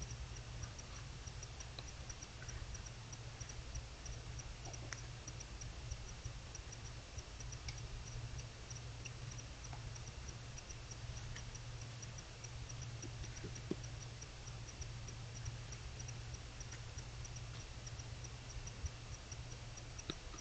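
A night insect chirping steadily: short, high pulses about three a second, over a steady low hum.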